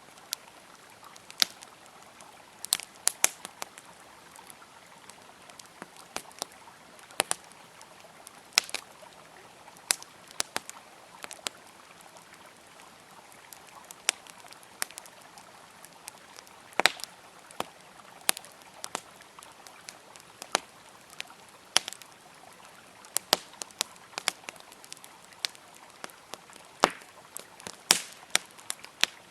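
Wood campfire crackling, with irregular sharp pops and snaps several times a second, over the steady rush of a flowing river.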